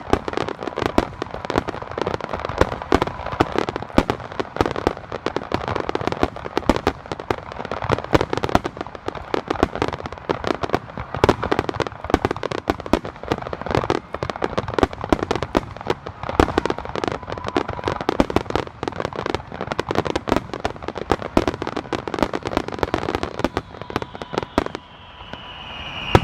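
Fireworks display in a dense barrage: many bursts and crackling reports follow one another without pause. The barrage stops about a second before the end.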